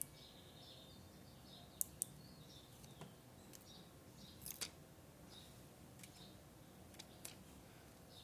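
Quiet scrapbooking work: a few sharp, short clicks and taps of crafting tools and paper, two close together about two seconds in, a small cluster around four and a half seconds and two more near seven seconds.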